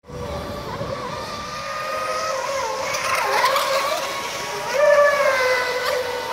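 Radio-controlled model racing boats' motors whining at speed, the pitch dipping and rising with the throttle and jumping higher and louder about five seconds in.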